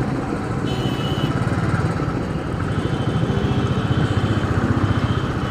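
Royal Enfield Thunderbird's single-cylinder engine running under way, a steady, rapid, even low pulse, with road and traffic noise around it.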